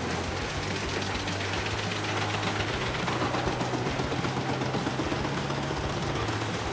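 Heavy wood-crushing machine running steadily: a low engine drone with a rough, noisy layer of grinding over it.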